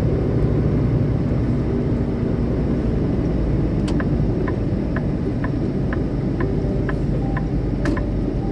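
Semi-truck cab noise on the road: a steady low engine and road rumble, with a run of light, evenly spaced clicks at about two a second in the second half.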